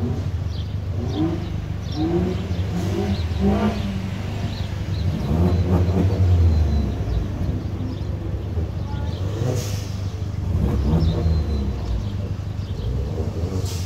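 Car engines running with a steady low idle, swelling louder about six seconds in and again near eleven seconds as a car revs or moves close by.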